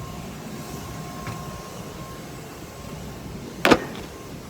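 Steady background noise of a car wash bay, with one sharp slap or knock about three and a half seconds in.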